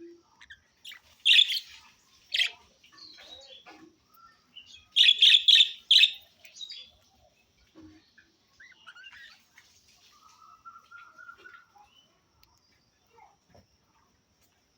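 Pet budgerigars chirping and softly warbling, with a loud sharp chirp about a second in, another a second later, and a quick run of four loud chirps about five seconds in.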